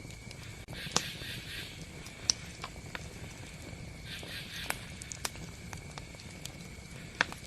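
Campfire crackling: a steady low hiss with sharp, irregular pops and snaps, several of them loud.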